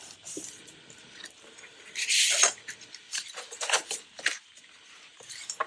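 Sheets of paper being handled and folded for a junk journal: a few short rustles and creases, the loudest about two seconds in.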